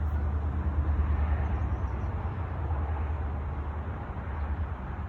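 A passing train, heard as a steady low rumble with an even rolling noise over it.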